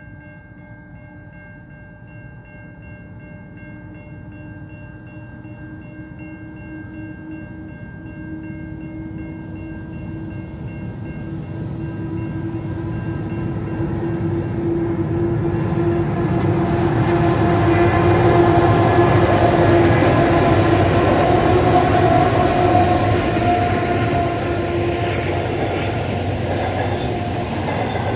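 A train approaching and passing close by, growing steadily louder for about twenty seconds to a loud peak of rumbling wheel and rail noise. A faint steady multi-toned sound in the first half fades as the rumble builds.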